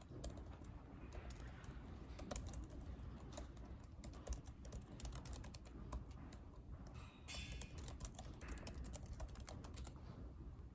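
Typing on a computer keyboard: quick, irregular key clicks in runs with short pauses, over a steady low room rumble. A brief rustle comes about seven seconds in.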